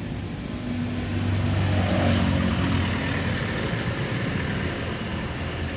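A motor or engine running steadily with a low hum, a little louder around the middle.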